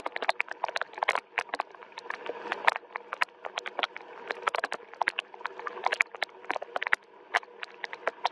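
Rain falling, with many irregular sharp drips and taps landing on a hard surface over a soft hiss.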